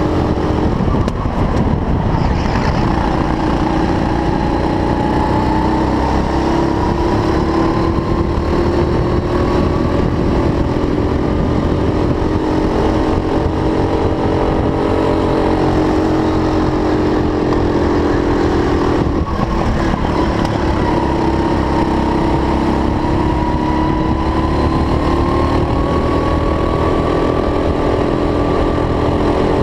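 Go-kart engine at high revs, its pitch climbing slowly as it accelerates and dropping sharply about a second in and again around nineteen seconds in as it lifts or brakes, then climbing again.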